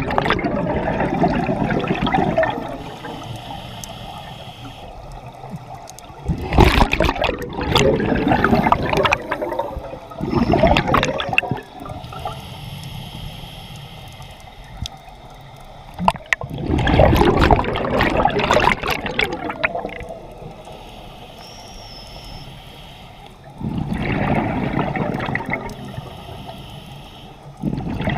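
A scuba diver breathing through a regulator underwater, in a slow repeating cycle. A soft hiss on each inhale is followed by a loud rush of exhaled bubbles gurgling up past the microphone, about every six to eight seconds.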